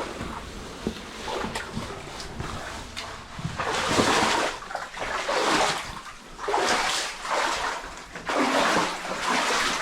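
Heavy breathing close to the microphone: loud rushing breaths about every two seconds, with fainter scuffs and knocks between them.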